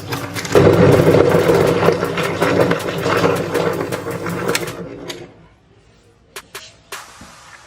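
Electric meat grinder motor running with a steady hum and crackling as it grinds, getting louder about half a second in and winding down near five seconds; a few separate clicks follow.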